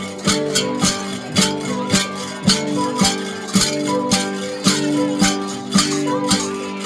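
Cồng chiêng gong ensemble playing: several gongs ring on at steady pitches under a sharp accented beat about twice a second.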